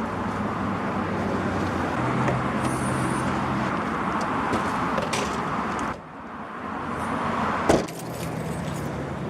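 Keys jangling over a steady vehicle rumble, with one sharp clack about two seconds before the end.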